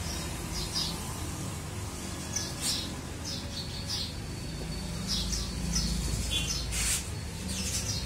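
Small birds chirping in short, high calls scattered throughout, over a steady low hum, with a brief rustling burst near the end.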